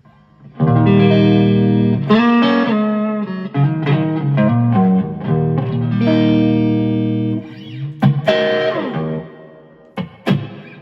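Electric guitar played through two amplifiers split in stereo: strummed chords that ring on and change every second or two, starting about half a second in and ending in a few short stabs.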